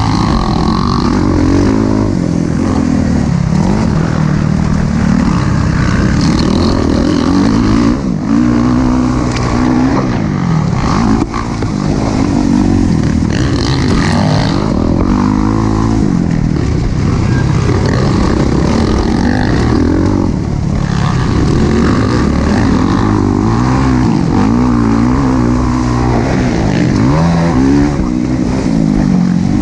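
Several motocross dirt bike engines revving up and down on a track, their pitch climbing and dropping every second or two as riders work the throttle through jumps and corners.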